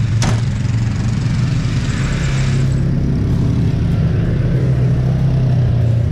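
Honda Pioneer 1000 side-by-side's engine running steadily while driving. A sharp knock sounds just after the start, and a rushing hiss over the engine stops about three seconds in.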